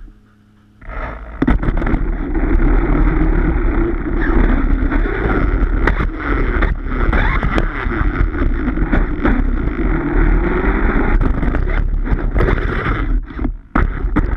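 Redcat Rampage XBE 1/5-scale electric RC truck driving hard over grass on grass-shredding tyres, a loud continuous rough rumble full of small ticks and clicks. It starts about a second in and dips briefly near the end.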